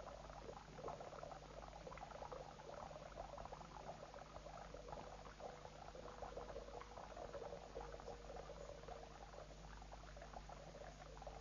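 Faint, dense crackle over a steady low hum: the surface noise of an old film soundtrack, with no narration.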